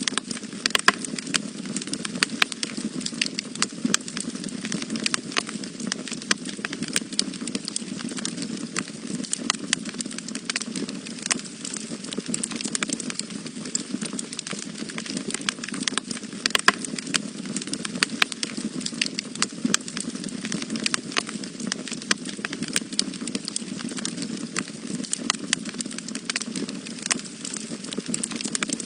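Wood fire burning in a fireplace, crackling with frequent sharp pops over a steady low rush of the flames.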